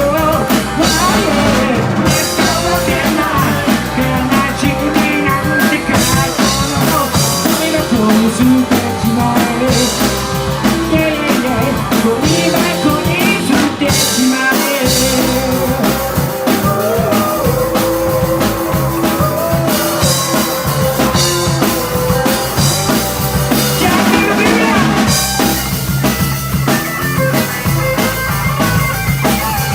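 Rock and roll band playing live: a steady drum-kit beat under a driving full-band sound, with sustained, bending melodic lines in the middle.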